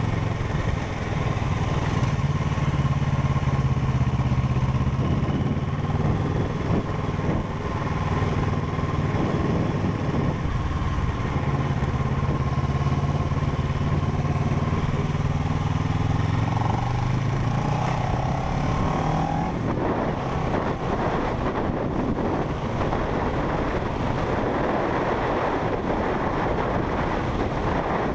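Parallel-twin motorcycle engine under way, its pitch climbing and dropping several times as the bike pulls through the gears. About twenty seconds in, wind rushing over the microphone at speed takes over and masks most of the engine.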